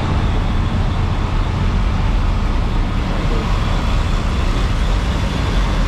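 Steady low rumble of vehicle engines running, with a constant noisy haze over it.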